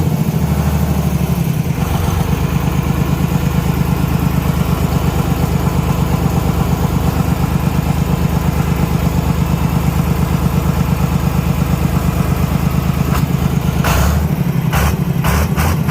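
Tractor engine running at a steady idle with an even low pulse. A few short knocks or clanks come near the end.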